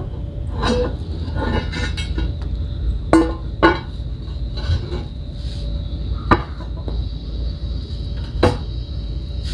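Hard clinks and knocks, about eight of them at irregular intervals, as porcelain patio pavers and plastic paver edging are shifted and a paver is slid back into place. A steady low rumble runs underneath.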